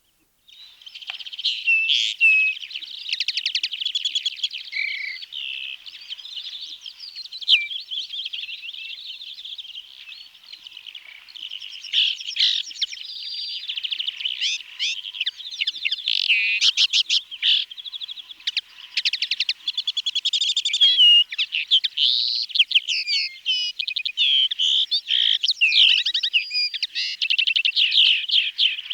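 Common linnet singing: a long, fast, varied twittering song of chirps, short slurred notes and rapid trills, running on almost without pause.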